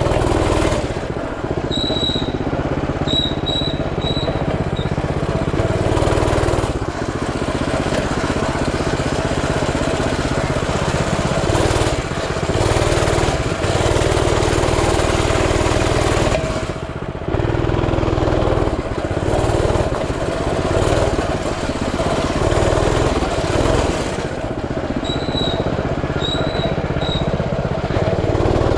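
Coleman CT200U mini bike's 196cc single-cylinder four-stroke engine running steadily under a rider. The engine note shifts with the throttle and eases off briefly a little past halfway. Short high chirps come twice, once early and once near the end.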